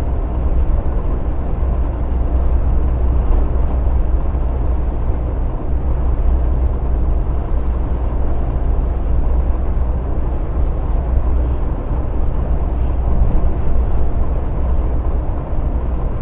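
Truck cab noise while driving: a steady, deep drone of engine and road with no changes.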